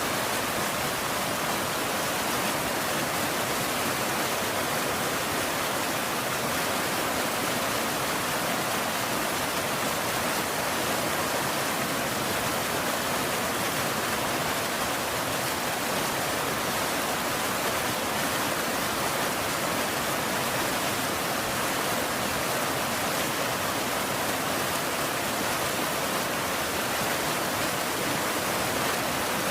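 Steady rainfall, an even hiss with no drops, thunder or changes standing out.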